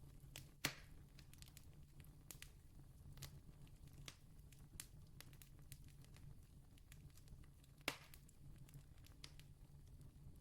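Faint crackling of a distant wood campfire: scattered small crackles, with two louder pops under a second in and about eight seconds in, over a steady low hum.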